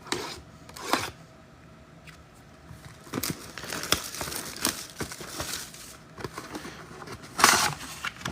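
A box of sports trading cards being torn open and its sealed packs handled: a run of short, irregular crinkles of pack wrappers and tearing of card-stock, the loudest burst near the end.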